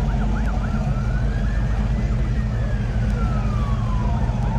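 Emergency vehicle siren wailing: one slow rise and fall in pitch, beginning to rise again near the end, with a few quick yelping sweeps at the start. Underneath is a steady low rumble.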